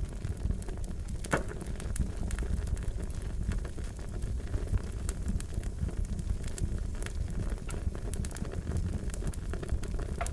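Wood fire crackling: a steady low rumble with frequent small irregular pops, one sharper pop about a second and a half in.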